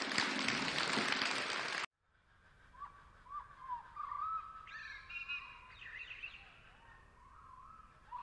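A loud rushing noise cuts off suddenly about two seconds in. After a short gap come faint bird chirps and whistled calls that rise and fall.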